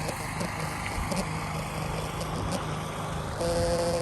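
Car engine idling in an outdoor crowd, with a steady low hum. Near the end, a louder steady humming tone sets in.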